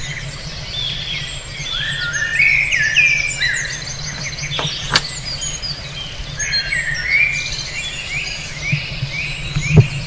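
Several birds chirping and singing together in quick, repeated high notes and trills, over a steady low hum. A single sharp click about halfway through.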